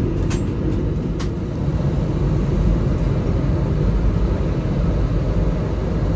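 Steady low rumble of an Airbus A320's engines and airframe heard from inside the passenger cabin on the ground, with two light clicks or rattles in the first second or so.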